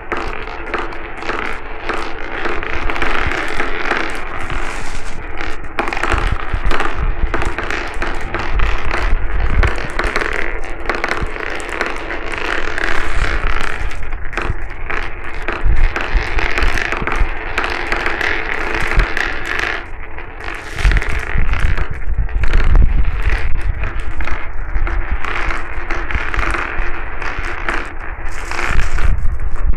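Many glass marbles rolling and clattering down a marble-run track, with a dense, continuous rattle of small clicks and occasional low thumps.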